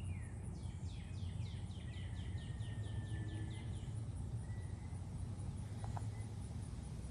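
A songbird singing a quick run of about a dozen downslurred notes lasting about three seconds, with a few thinner whistled calls, over a steady low rumble.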